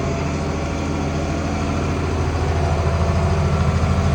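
International Harvester 1566 tractor's six-cylinder turbo diesel running steadily at low speed, heard from inside the cab, growing a little louder about halfway through.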